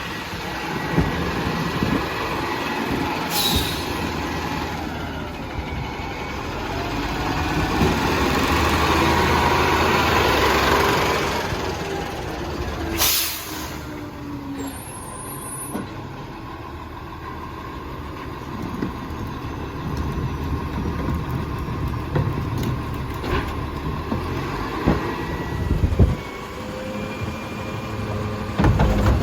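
Heil rear-loader garbage truck at work: its diesel engine runs steadily and grows louder for a few seconds in the first half. Two short, sharp air hisses come about three seconds in and again near the middle.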